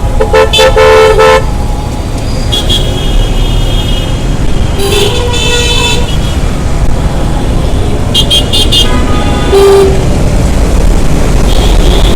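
Vehicle horns honking repeatedly in slow, congested road traffic: about six blasts of different pitches, some short and some held for over a second, over a steady low rumble of traffic.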